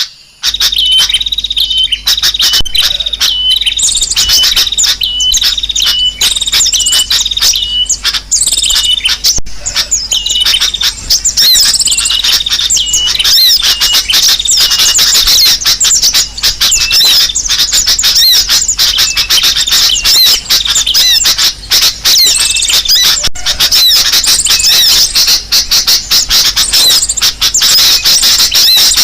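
Bird-lure recording of kolibri sogok ontong calls mixed with sooty-headed bulbul (kutilang) song. Loud, rapid, unbroken high chirps and trills, with a faint steady low hum beneath.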